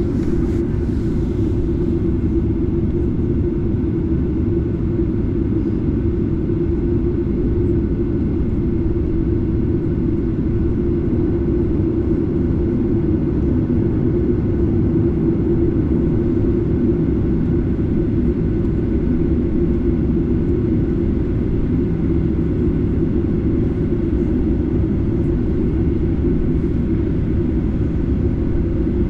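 Steady low rumble of a Boeing 737-8's CFM LEAP-1B jet engines, heard inside the cabin from a seat near the engine.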